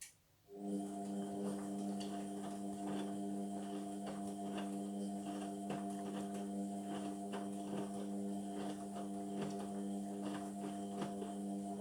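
Indesit washing machine's drain pump humming steadily for about eleven seconds, with irregular clicks and gurgles of water passing through it. It switches on with a click about half a second in and cuts out just before the end.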